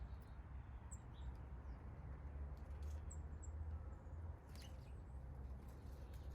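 Small backyard birds giving a few short, high chirps, faint, over a steady low background rumble.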